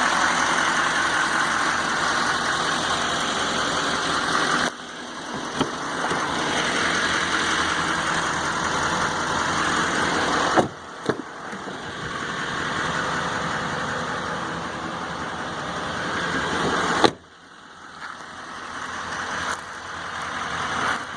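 Duramax 6.6-litre V8 turbo-diesel of a 2012 Chevy Silverado 3500HD idling steadily. The level drops suddenly three times, about 5, 11 and 17 seconds in.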